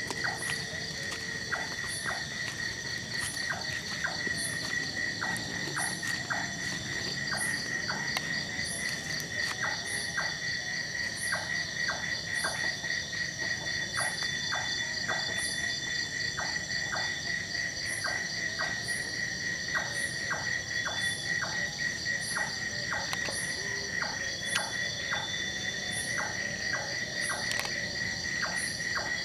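Night insect chorus: crickets trilling steadily at several pitches. A short, high chirp repeats about every half second over scattered, irregular clicking calls.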